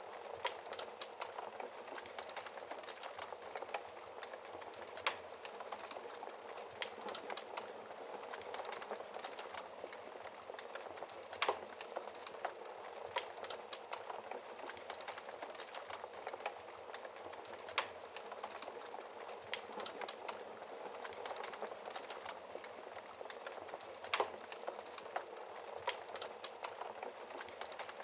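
Fire crackling: a steady hiss with dense small crackles and a few louder, sharper pops spread throughout.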